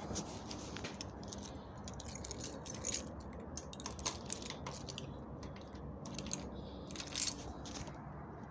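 Irregular light clicks and metallic jingling, like small metal parts or keys being handled.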